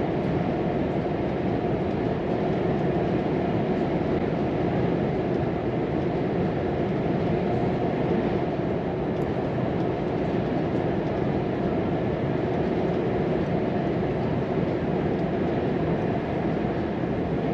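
Volvo FM 420 hp truck driving at steady speed, heard from the cab: a constant engine drone with tyre and road noise.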